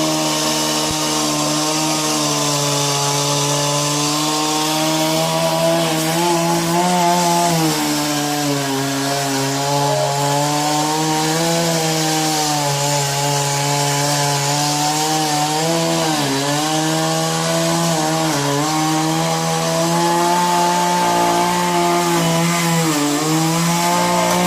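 Two-stroke chainsaw running near full throttle while cutting into a wooden pole, its pitch dipping several times as the chain loads up in the cut and then recovering.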